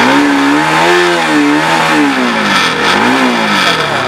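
Bajaj Pulsar NS200's single-cylinder engine revved up and down three times, the pitch climbing and falling with each rev.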